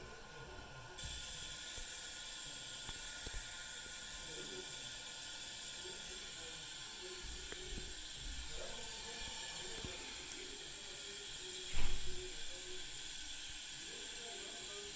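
Steady hiss of a 2007 Kohler Wellworth toilet's tank fill valve refilling the tank, starting abruptly about a second in. One sharp knock sounds a little before the end.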